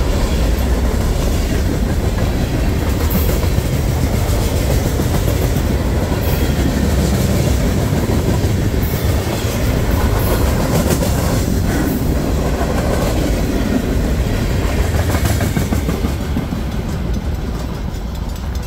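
Freight train cars rolling past at close range, with a steady rumble and repeated clicking of wheels over rail joints. The sound eases slightly near the end.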